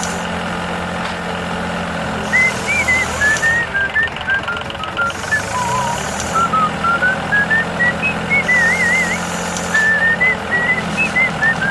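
A steady low, engine-like hum. From about two seconds in, a tune of short, high, whistle-like notes hops up and down over it, a few of them warbling.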